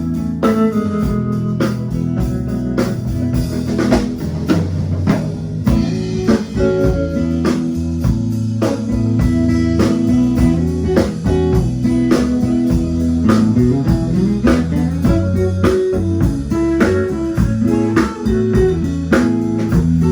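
Band playing blues-style music with guitar, bass and a drum kit keeping a steady beat.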